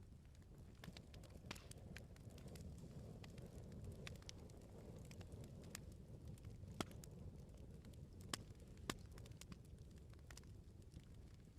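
Wood bonfire crackling: a low steady rumble of burning with scattered sharp snaps, and a few louder pops in the second half.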